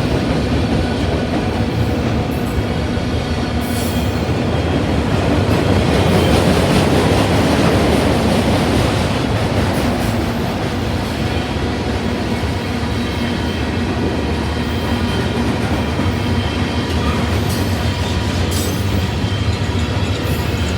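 Freight train rolling past: a steady rumble of steel wheels on rail, with a few sharp clicks and faint wheel squeal over it.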